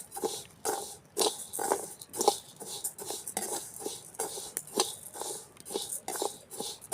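Rice grains being stirred as they dry-roast in a pan, giving a run of irregular scraping, rustling strokes about two a second.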